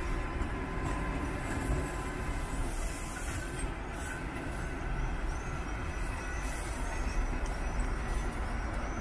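Passenger train coaches rolling past on the rails: a steady rumble of wheels on track.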